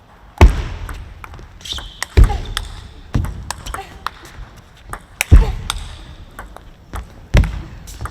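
Table tennis rally: a celluloid-type plastic ball clicking off rackets and the table in quick exchanges, with several heavier hits among the lighter clicks.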